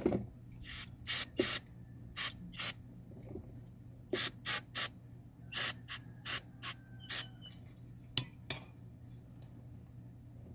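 A knock, then about fifteen short, separate hissing bursts of spray or air in irregular groups of two or three.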